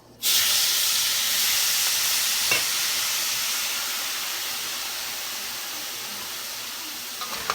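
Salt water hitting a hot pan of peanuts: a sudden loud sizzle that slowly dies down as the water steams off, with a single click about two and a half seconds in.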